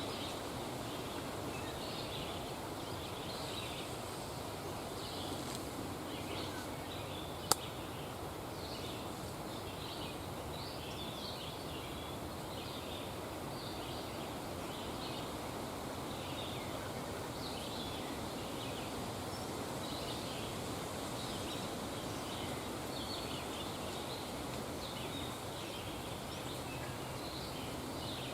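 Open-field ambience: a steady low background hiss with small birds chirping over and over in the distance, and a single sharp click about seven and a half seconds in.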